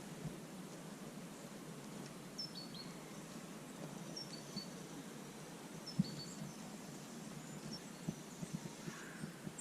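Birds chirping in short high calls over a steady outdoor background hiss, with a few light knocks: one sharp knock about six seconds in and a run of smaller ones near the end.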